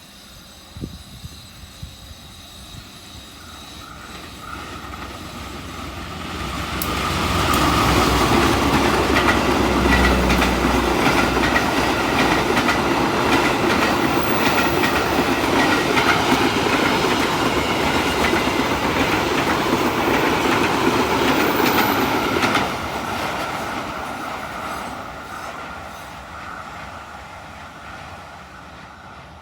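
Passenger train passing close by: the rumble and wheel clatter on the rails build over several seconds, stay loud for about fifteen seconds, then fade as it moves away.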